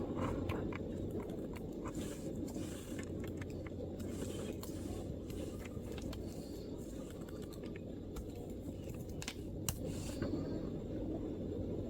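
MacBook keyboard keystrokes: sparse, irregular light key clicks, a few sharper ones near the end, over a steady low background rumble.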